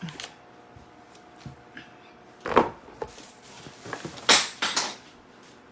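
A few sharp knocks and clatters of kitchen utensils and dishes being handled. The loudest comes about two and a half seconds in, then a short cluster a little past four seconds, over a faint steady hum.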